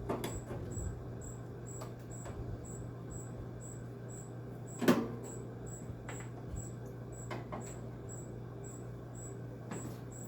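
Flat-blade screwdriver working at a stubborn slotted screw on a window air conditioner's metal case: scattered clicks and scrapes, with one sharp clack about halfway through, over a steady low hum.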